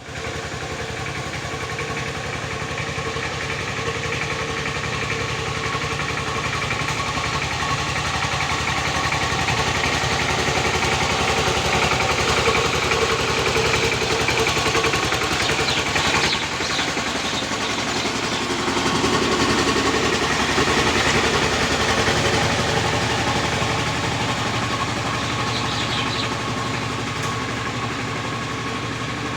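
Tractor engine running steadily, with a regular firing beat and slight swells in loudness.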